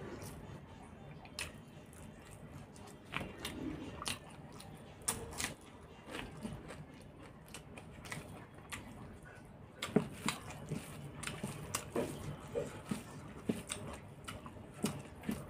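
A person chewing and biting mouthfuls of rice and curry eaten by hand, close to the microphone, with short sharp clicks of the mouth that come more often from about ten seconds in.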